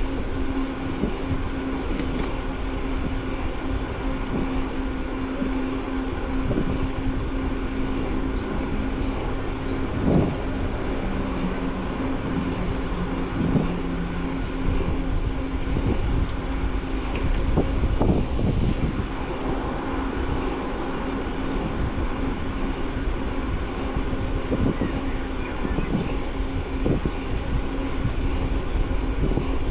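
Bicycle riding noise: steady tyre and wind rumble with a constant hum, broken by short knocks and rattles over bumps in the path.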